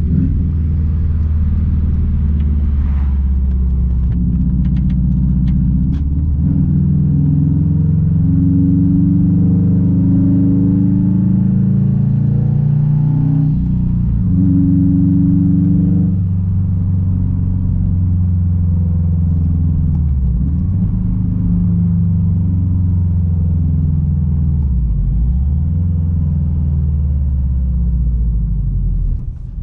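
Straight-piped 2006 Subaru WRX STI's turbocharged flat-four running under way, a loud steady exhaust drone. The engine note climbs and holds twice in the first half, then dips briefly in pitch twice later on.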